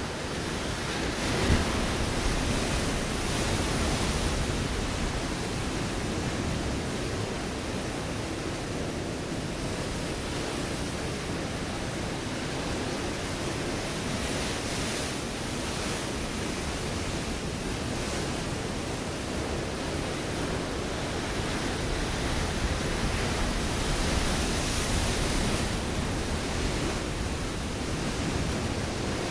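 Ocean waves breaking on a rocky shore: a continuous rushing wash of surf that swells louder several times as waves come in.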